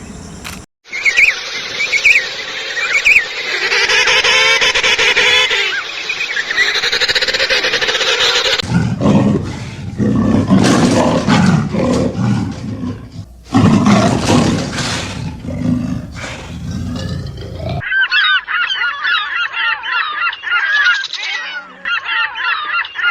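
A succession of recorded animal calls from three different animals: a noisy, wide-ranging call for the first several seconds, then low-pitched calls from about nine to eighteen seconds, then rapid, repeated high-pitched calls.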